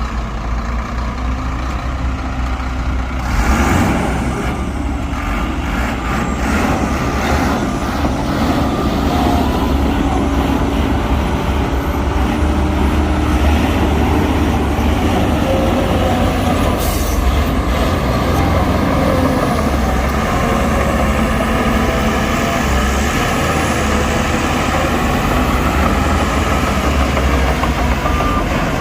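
Heavy diesel engines of dump trucks and earthmoving machines running steadily, with a louder surge a few seconds in and a short hiss about midway. A reversing beeper starts near the end.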